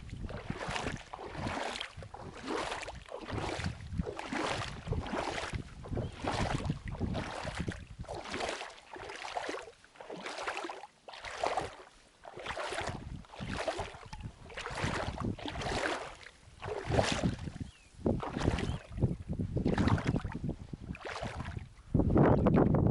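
Strong wind over a reservoir, with small waves lapping against the shore in quick, even splashes, about one to one and a half a second, and wind noise on the microphone. Near the end a louder gust hits the microphone.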